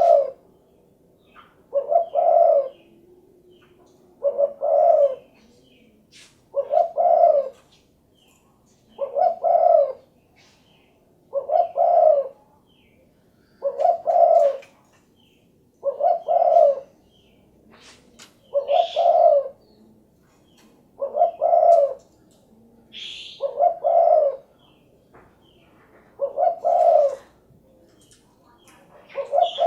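Spotted dove (derkuku, tekukur) cooing its 'cukurukuk kuk geruk' phrase over and over, about one phrase every two and a half seconds. Twice, near the middle, another bird gives a short higher chirp.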